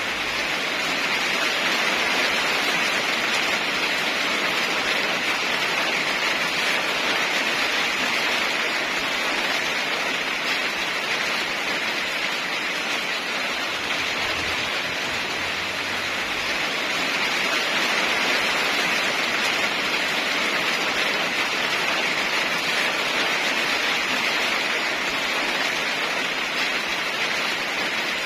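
Heavy rain falling steadily, swelling a little in loudness twice.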